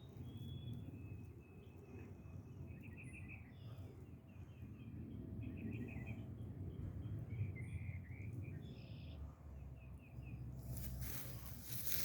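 Small birds chirping short trills every second or two over a steady low rumble. A brief rustling hiss comes near the end.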